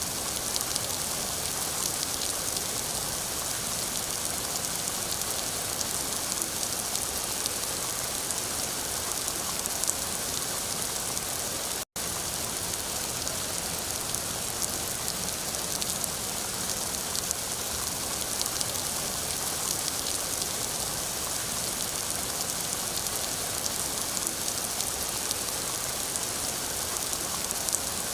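Steady rain falling: a dense, even hiss with scattered drop ticks. About twelve seconds in it cuts out for a split second.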